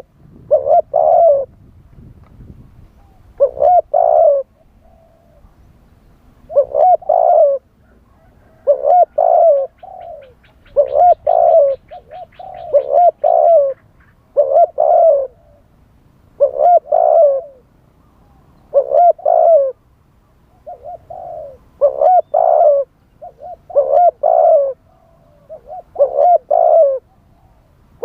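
Spotted dove cooing: a phrase of two or three low coos repeated about every two seconds.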